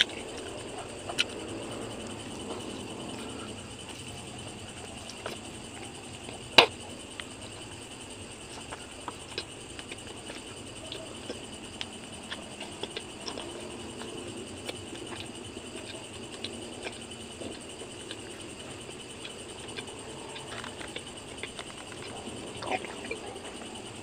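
Mouth sounds of someone eating grilled fish by hand: chewing and smacking, with scattered sharp clicks, the loudest about six and a half seconds in. A steady high insect chirring, from crickets, runs underneath.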